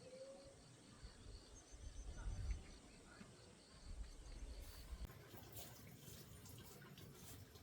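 Faint rural background: a small insect chirping in an even rhythm, about three high chirps a second, over low rumbling. About five seconds in the chirping stops and a run of faint clicks and rustles begins.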